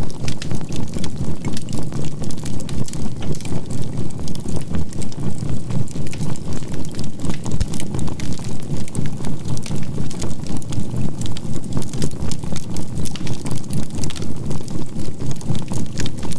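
A low, pulsing hum beating about four times a second, with a faint steady 528 Hz tone, laid over the crackling of burning charcoal in a campfire.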